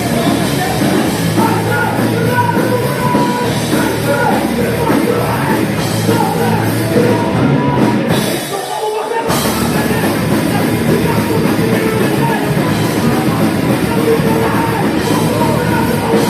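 Live heavy metal band playing at full volume: distorted guitars and drums with shouted vocals. The low end drops out for under a second about eight and a half seconds in, then the band comes back in.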